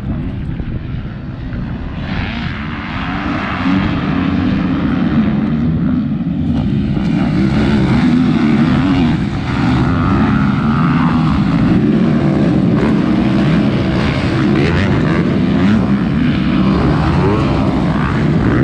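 Several 250cc motocross bike engines revving and changing pitch as they race. The sound builds over the first few seconds, then stays loud.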